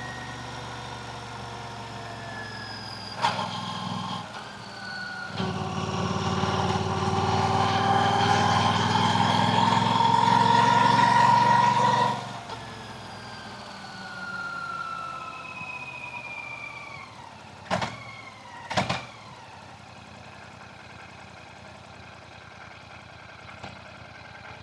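Royal Enfield Classic 650's parallel-twin engine and exhaust. It steadily builds in pitch and loudness under throttle, cuts off suddenly as the throttle closes, then falls in pitch as the bike slows. Two sharp knocks come near the end.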